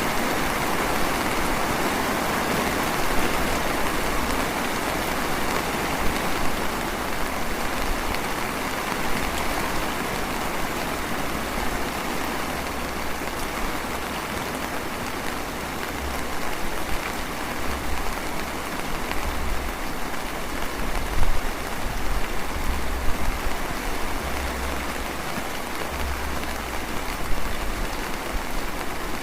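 Light drizzling rain falling steadily, a fine even patter of raindrops, with a low rumble coming and going underneath.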